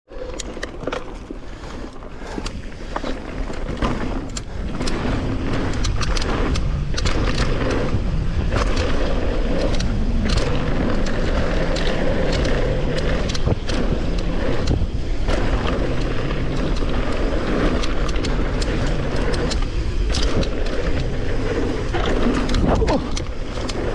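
Mountain bike riding a dirt trail heard from a camera mounted on the rider or bike: steady wind rumble on the microphone with tyre noise and frequent clicks and rattles from the bike over bumps, building up over the first few seconds as speed rises.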